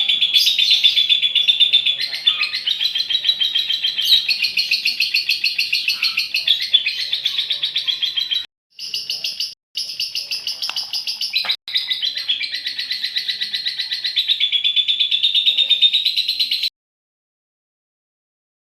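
Female lovebird's long chattering song (ngekek): a rapid, unbroken run of shrill high notes, many per second. It stops dead twice briefly past the halfway point and cuts off abruptly about two seconds before the end.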